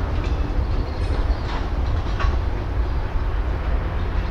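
Freight train of tank cars and covered hoppers rolling slowly through a yard: a steady low rumble with a few faint brief squeaks from the wheels and couplers.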